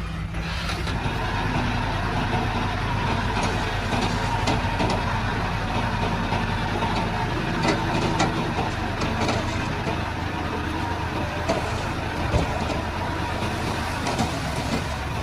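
Komatsu D31-P crawler bulldozer's diesel engine running steadily under work, with scattered metallic clanks from its tracks.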